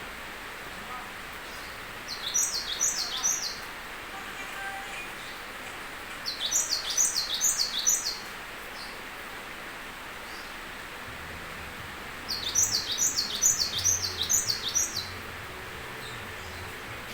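A songbird singing hard in three bursts, each a quick run of high, sharp notes that sweep downward, over a steady background hiss.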